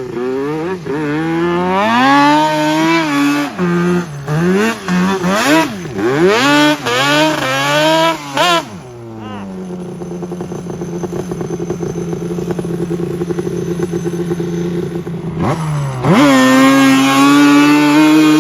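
A 2002 Yamaha Banshee's two-stroke twin engine, breathing through a MOTOFAST 2-into-1 exhaust, revving up and down several times in quick blips. It then settles to a steady idle, and near the end climbs quickly to a steady higher speed.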